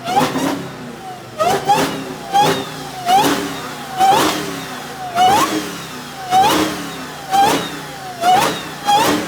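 A car engine revved in a series of short, sharp blips, roughly one a second, with the pitch shooting up and dropping back each time.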